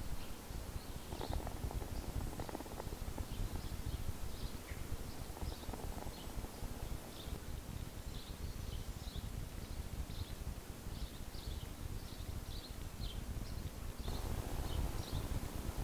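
Forest ambience: small birds chirping in many short, irregular high notes over a steady low rumble.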